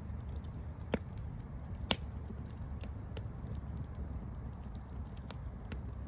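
Campfire burning, with a steady low rumble and scattered small crackles of the wood, and two louder pops about one and two seconds in, the second the loudest.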